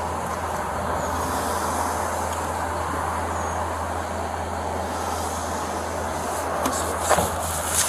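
Steady road traffic noise with a constant low hum, and a few short knocks about seven seconds in.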